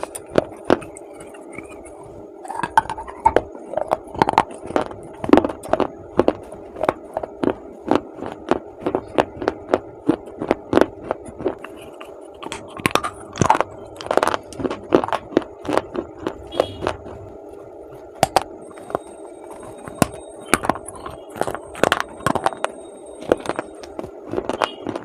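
Close-miked biting and chewing of dry baked clay: a rapid, irregular run of sharp crunches, several a second, over a steady faint hum.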